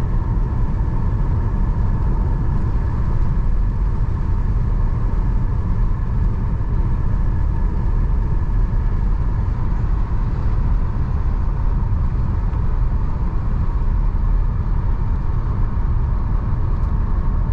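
Steady rumble of a car driving along at an even speed, heard from inside the cabin: road and engine noise with a faint steady hum.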